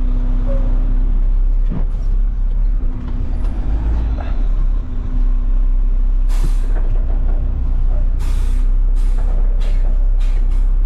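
Front-load garbage truck's diesel engine running steadily, with a hiss of released air from the air system about six seconds in, followed by several shorter air hisses in quick succession.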